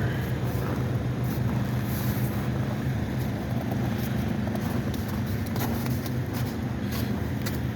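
Semi truck's diesel engine idling steadily, a constant low hum, with a few short clicks over it.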